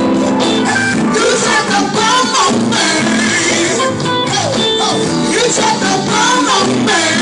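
Church worship music: singing voices over a live band with guitar, loud and steady.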